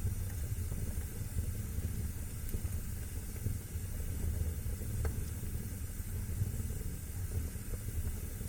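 Wood fire burning in a fireplace: a steady low rumble and hiss of the flames with an occasional sharp crackle, one distinct pop about five seconds in.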